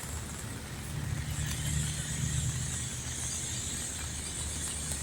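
Steady rain hiss with a low rumble underneath that swells about a second in.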